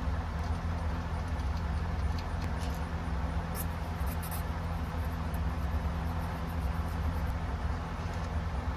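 An engine running steadily: an even low hum, with a few faint light clicks about three and a half to four and a half seconds in.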